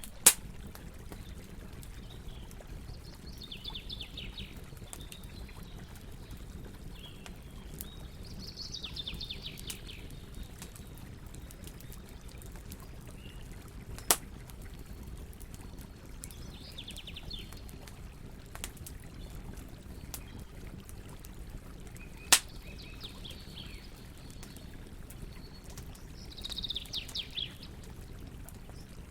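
Campfire crackling with faint ticks and three loud sharp pops, spread out. A bird calls five times in short rapid trills over a low, steady rush.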